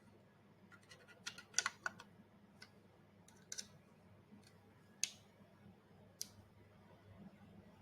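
Small hard parts clicking and tapping as they are handled during assembly: a quick cluster of clicks about one and a half seconds in, then single taps every second or so.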